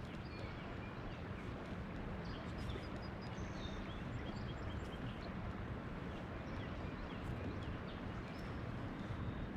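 Faint chirping of songbirds scattered throughout, over a steady low background rush.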